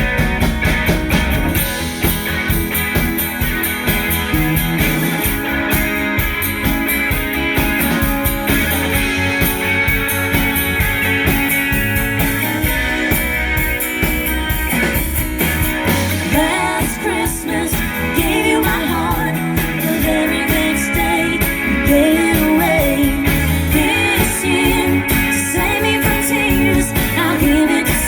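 A live band playing a Christmas song, with guitar over a steady beat. A singing voice joins about halfway through.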